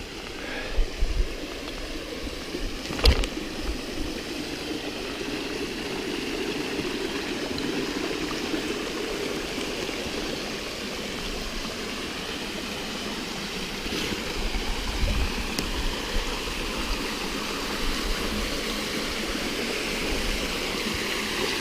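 A small waterfall and stream running steadily with a low flow of water. A few short low thumps and a sharp knock come near the start, and more thumps come about two-thirds of the way through.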